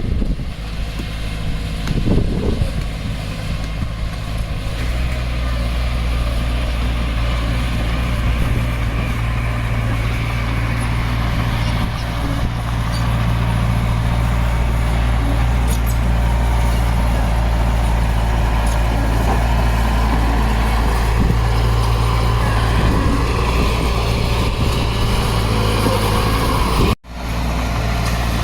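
Diesel engine of heavy earthmoving equipment (bulldozer or dump truck) running steadily with a low drone that grows a little stronger about five seconds in. The sound drops out abruptly for a moment near the end.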